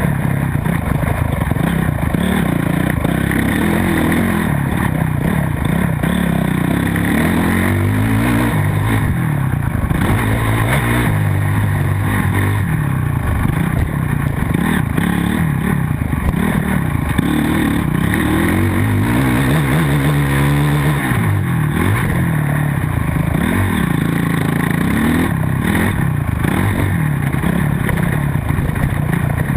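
Motocross bike engine racing on a dirt track, revving up and falling back again and again as the rider works the throttle and shifts, with some mechanical clatter.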